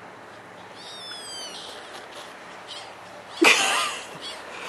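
A bird calls with a short run of falling whistled notes, then a louder cry comes about three and a half seconds in, over a steady faint outdoor hiss.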